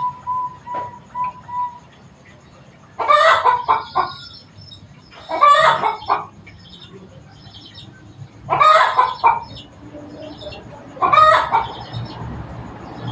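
Domestic chicken calling four times, each loud call about a second long and spaced a few seconds apart, with faint small-bird chirps between.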